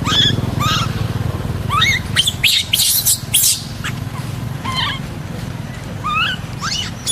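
Baby monkey giving repeated short, high-pitched squeaks and chirps that rise in pitch, over a steady low engine hum.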